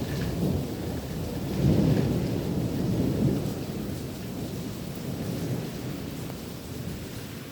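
Thunder rumbling over steady rain during an intense thunderstorm, swelling about two seconds in and slowly dying away.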